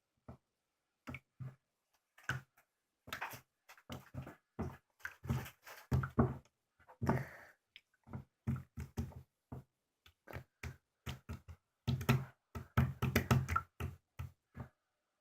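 Slime being squished and poked by hand, giving a long run of irregular clicks, pops and soft knocks that come thickest in the middle and again near the end.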